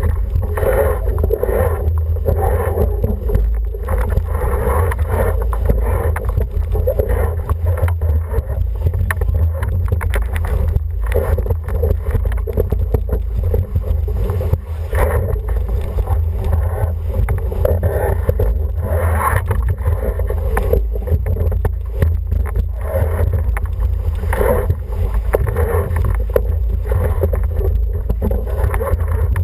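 Wind buffeting the microphone with a steady low rumble, over water rushing and splashing against the hull of an International 14 racing dinghy under sail, rising in repeated surges every second or two.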